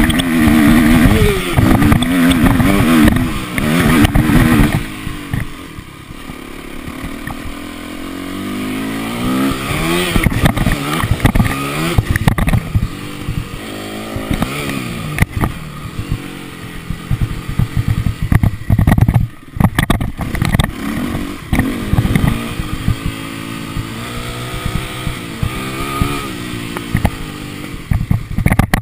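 Motocross bike engine revving hard, its pitch climbing and dropping again and again as the throttle is worked and gears change. It is loudest in the first few seconds, quieter from about six to nine seconds in, then surges repeatedly.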